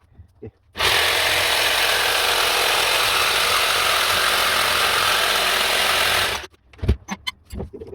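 Handheld power tool running steadily for about five and a half seconds, then switched off, followed by a few sharp knocks.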